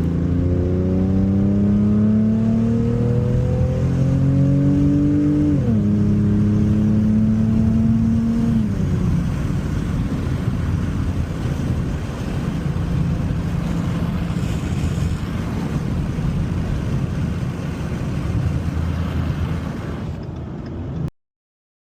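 The exhaust of a 2017 Ford Mustang's 3.7-litre V6 through an MBRP H-pipe exhaust. It accelerates with a rising note, drops sharply in pitch at a gear change about five and a half seconds in, and drops again about three seconds later. It then settles into a steady, lower drone until the sound cuts off abruptly near the end.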